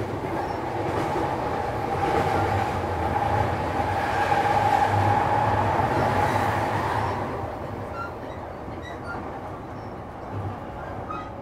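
Shonan-Shinjuku Line electric commuter train running, wheels rumbling on the rails. A whine rises to its loudest about halfway through, then fades about seven seconds in, leaving a quieter rumble with faint ticks.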